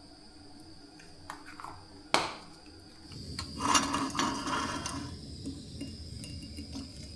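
A single sharp knock about two seconds in, then rustling and clattering handling sounds for a second or two, with a low steady rumble from about three seconds on.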